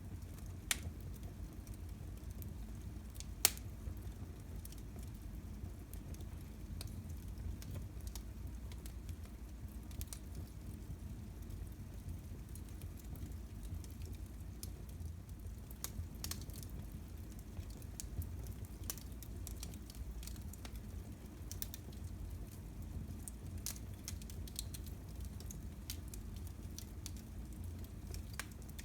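Fire burning in a fireplace, a low steady rumble with scattered small crackles and a sharp pop about three and a half seconds in.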